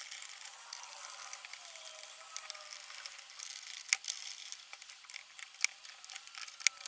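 Hand tool tightening the crankcase bolts on a Honda Dio scooter engine. There are a few scattered sharp metallic clicks over a faint hiss.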